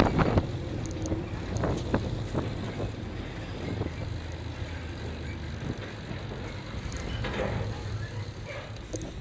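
Steady rumble of road and wind noise while riding along a road, with a few scattered knocks.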